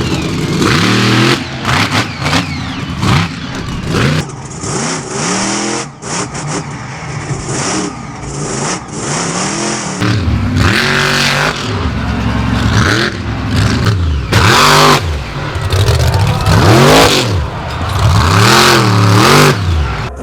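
Monster truck supercharged V8 engines revving hard, the pitch swinging up and down again and again across several short cuts of footage.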